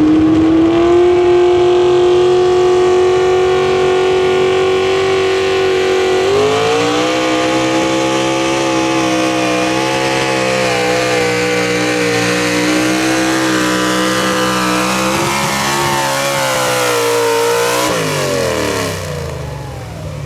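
Pro Stock mini truck's engine running at high revs under load during a pull. It rises to a steady high pitch, drops to a lower pitch about six seconds in and wavers there, then winds down with a falling pitch near the end.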